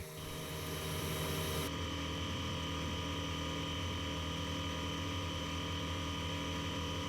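Piper Super Cub's engine and propeller droning steadily, heard from inside the cabin. About two seconds in, the high hiss above the drone drops away abruptly while the engine tone carries on unchanged.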